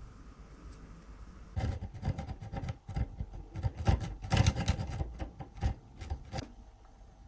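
Hand work on metal parts: a run of irregular clicks, knocks and scrapes starting about a second and a half in and stopping shortly before the end.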